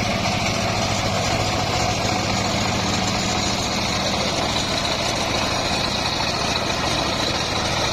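Engine of a homemade circular sawmill running steadily at an even speed, with a faint steady high whine above the engine hum.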